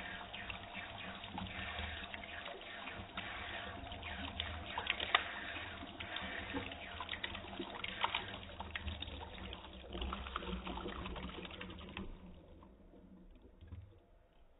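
Water dripping and trickling: a steady splashing with many separate drops standing out. It thins out about twelve seconds in, leaving a few scattered drips.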